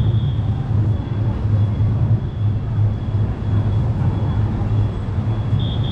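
Steady low vehicle rumble with a thin, high steady whine above it that grows louder near the end.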